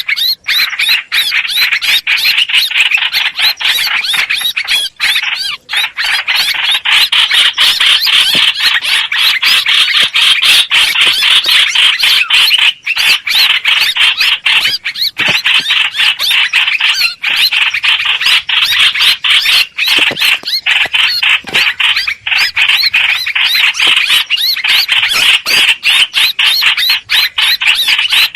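Lure recording of a hoành hoạch bird calling: a loud, unbroken run of rapid, high chattering notes with only a few short gaps.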